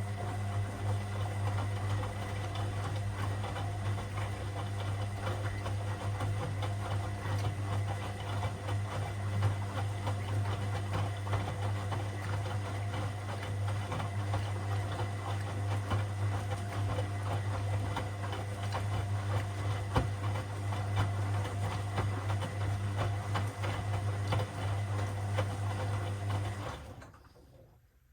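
Washing machine running mid-cycle: a steady motor hum with a rough churning, sloshing noise over it, which cuts out about 27 seconds in.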